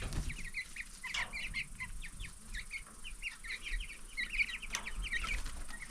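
A flock of young Cornish Cross meat chicks peeping: many short, high chirps overlapping continuously.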